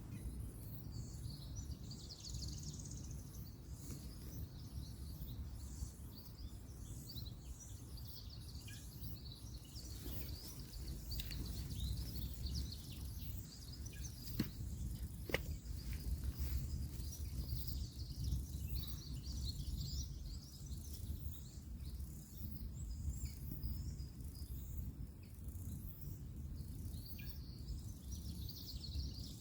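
Woodland ambience: birds chirping over a steady low rumble of distant road traffic, with a few sharp clicks about halfway through.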